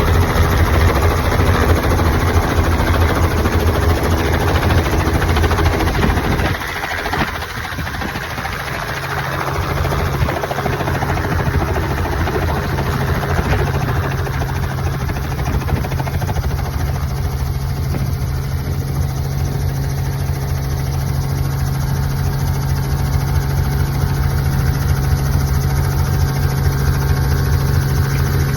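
A large engine running steadily with a deep, even drone. About six to seven seconds in its note changes: the deepest rumble drops away and a steadier, higher hum takes over.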